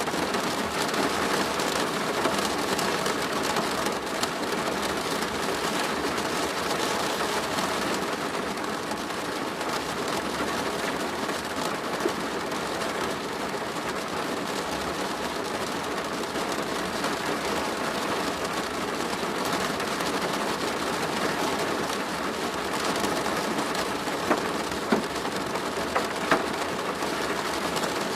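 Steady rain falling on a plastic roof, an even, dense hiss. About three louder single drops strike near the end.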